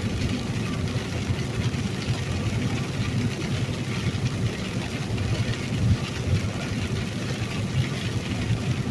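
Steady drone of a semi truck's diesel engine and tyres on a wet highway, heard from inside the cab while driving, with a constant hiss of rain and road spray over the low engine rumble.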